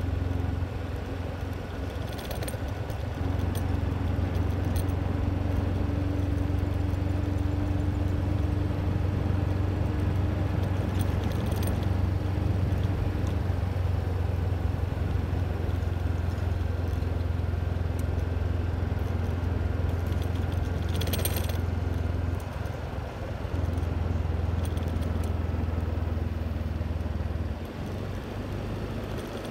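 Steady low rumble of a moving motor vehicle, easing off briefly twice, with a few short clinks or rattles.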